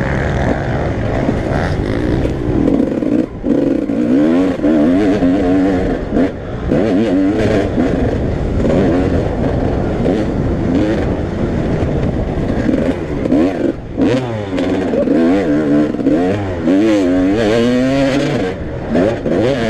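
Several motocross bikes racing, their engines revving up and down through the gears with overlapping notes that rise and fall continuously.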